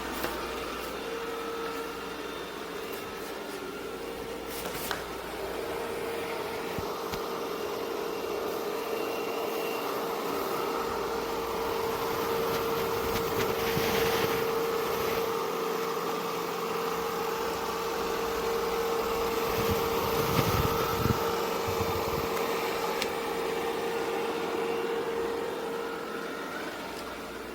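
ECOVACS Deebot X9 Pro robot vacuum running, a steady fan hiss with a held hum. It grows louder toward the middle and then fades near the end.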